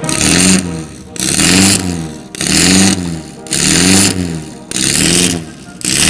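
Vintage racing car engine being blipped over and over, its revs rising and falling about once every 0.8 seconds with a raspy exhaust note.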